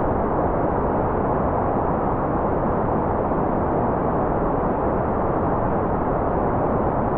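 Steady, unchanging white noise: a muffled, deep hiss with no high treble.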